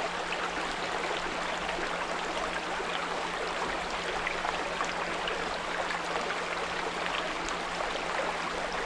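Small brook babbling and trickling steadily, with a steady low 174 Hz pure tone mixed in underneath.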